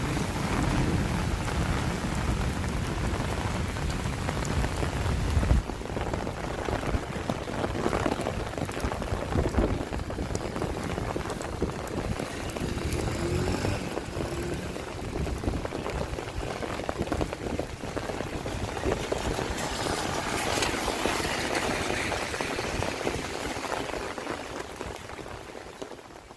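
Steady rain falling and pattering on surfaces, with a low rumble under it for the first five seconds or so that stops suddenly. The sound fades out near the end.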